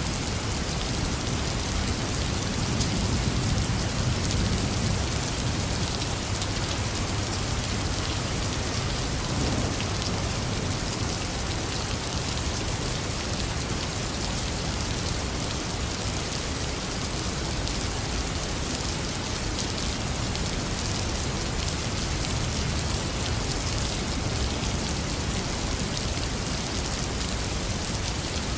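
Heavy rain falling steadily, with a low rumble of distant thunder swelling a few seconds in.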